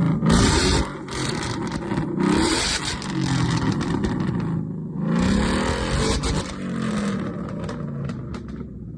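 Modern Ford Mustang GT 5.0 V8 revved hard to full throttle several times: a sharp rev at the start, then three long swells in engine speed, fading toward the end.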